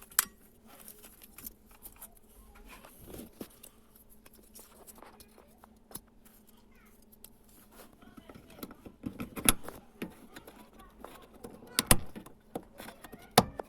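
Scattered sharp clicks and knocks of hand work on car parts, over a faint steady hum. A few louder clicks come near the start and again about nine and a half, twelve and thirteen and a half seconds in.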